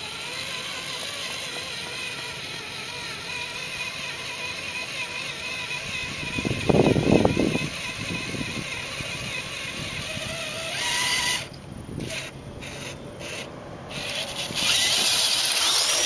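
Traxxas Titan 550 12-turn brushed electric motor driving an RC crawler, its motor and drivetrain whining steadily. A loud rumbling burst comes about seven seconds in, the whine drops off briefly around twelve seconds, and it grows louder again near the end.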